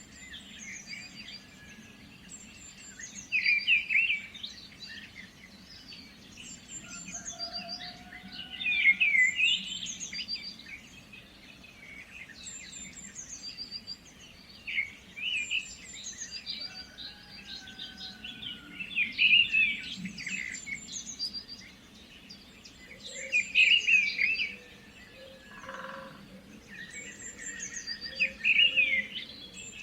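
Songbirds singing in short chirping phrases that come back every five seconds or so, over a faint steady low background hum.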